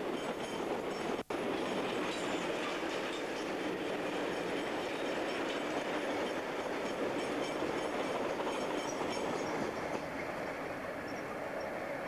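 Freight wagons of a long mixed goods train rolling past close by: the steady rumble and rattle of steel wheels on the rails. The sound cuts out for an instant about a second in.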